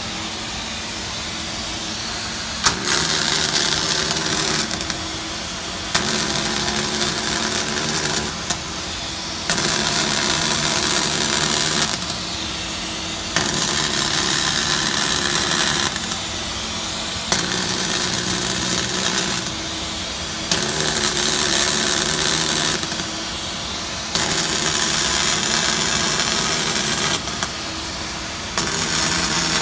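Robotic arc welding: the welding arc runs in about eight short seams of two to four seconds each, each starting abruptly with a loud hiss. Between the seams there is a steadier, quieter machine hum.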